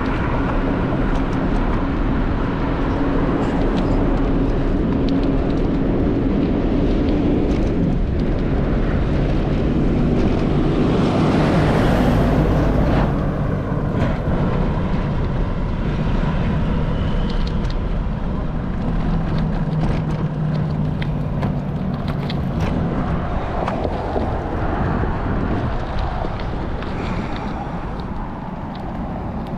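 A vehicle under way: a steady engine hum with road noise, its pitch shifting partway through and swelling louder about twelve seconds in.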